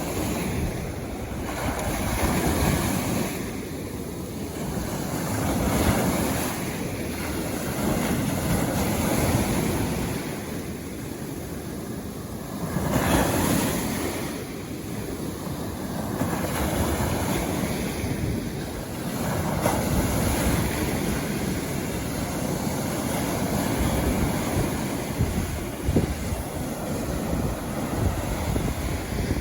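Sea waves breaking and washing up a beach, the surf swelling and falling back every few seconds, with wind rumbling on the microphone.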